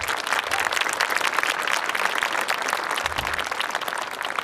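Crowd of spectators applauding, a dense patter of clapping that thins out near the end.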